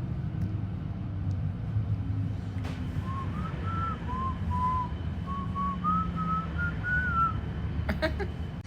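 A person whistling a short melody of about a dozen notes that dip and rise, starting about three seconds in, over the steady low rumble of a moving train carriage.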